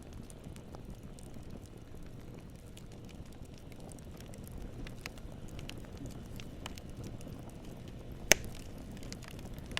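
Campfire burning: a steady low rush of flames with scattered small crackles, and one sharp, loud pop of a log about eight seconds in.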